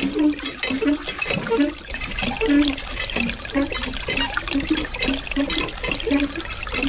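Water gushing from a miniature hand pump's spout into a small metal bucket, splashing and gurgling in spurts about two to three times a second as the handle is worked and the bucket fills.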